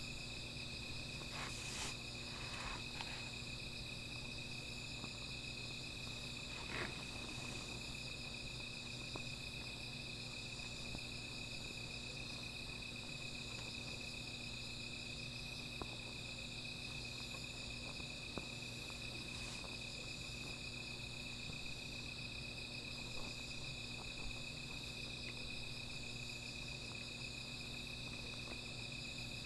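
Night chorus of crickets and other insects: several steady high-pitched trills layered together without a break. A few short faint crackles from a small fire come through, mostly in the first seven seconds.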